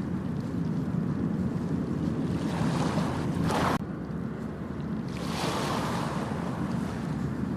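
Ocean surf breaking on a beach: a steady low rumble with two louder washes of foaming water, the first cutting off suddenly about halfway through. There is some wind buffeting the microphone.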